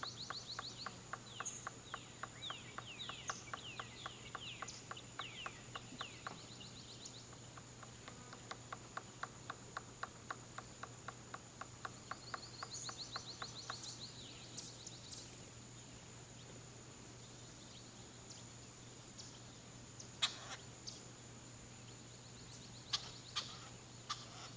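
Golden-fronted woodpecker excavating a possible nest hole: rapid, even pecking of bill on wood, about four to five strikes a second, in two bouts over the first half, then a few single louder knocks later on. Short descending bird chirps come over the pecking, and a steady high insect-like tone runs throughout.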